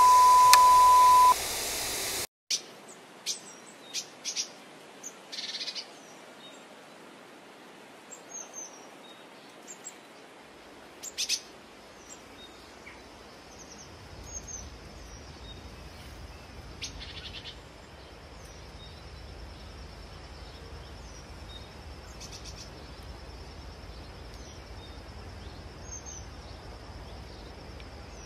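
A film-countdown beep, one steady tone that cuts off about a second in. Then birds chirping outdoors in short, scattered calls, with a steady high-pitched trill setting in about halfway through.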